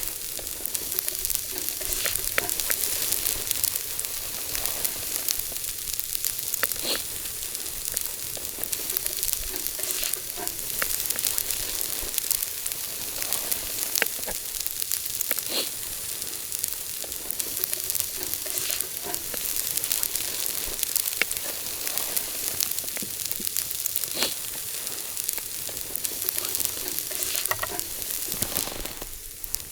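Food sizzling as it fries in a pan over a campfire: a steady hiss with scattered sharp pops and crackles.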